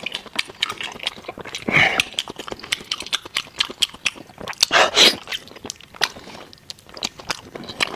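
Close-miked chewing of meat: a steady run of wet mouth clicks and lip smacks, with two louder, longer bursts about two seconds in and about five seconds in.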